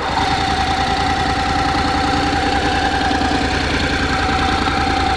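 Honda CTX700N's parallel-twin engine idling steadily, with an even low beat and a steady high whine over it.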